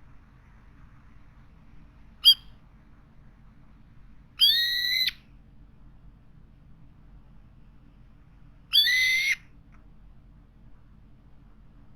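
Brown-eared bulbul calling: one short sharp note, then two loud, drawn-out calls about four seconds apart, each under a second long.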